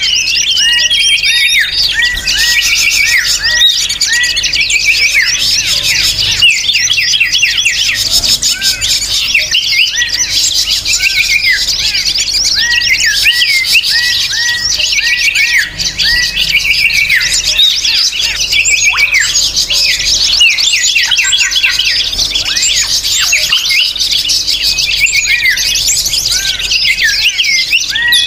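A busy chorus of many small songbirds chirping and twittering at once, short notes overlapping without pause: a bird-lure recording played to attract wild birds.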